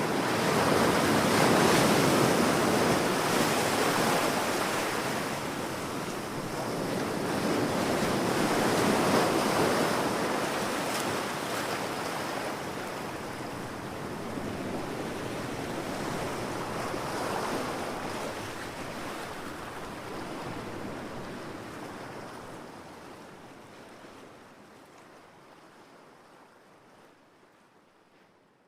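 Ocean surf washing onto a beach, swelling and falling back every several seconds, then fading gradually away over the last ten seconds or so.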